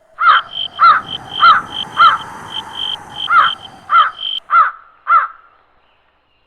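A crow cawing about eight times in a steady series, roughly a call every half second, with short, higher chirps repeating in between. It fades out about five and a half seconds in.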